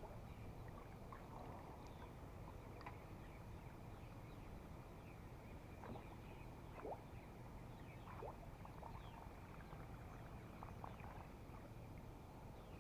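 Near-quiet open-water ambience from a kayak, with faint, scattered short chirps and a few light clicks.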